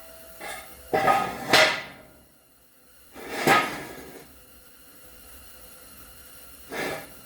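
Metal jack stands being set into place under a jacked-up vehicle: separate clanks and scrapes of metal, two close together about a second in, another a couple of seconds later, and a lighter one near the end.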